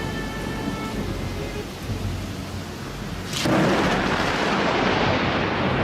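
Rain with a low rumble under faint background music, then about three and a half seconds in a sudden loud thunderclap from a close lightning strike, its crash carrying on to the end.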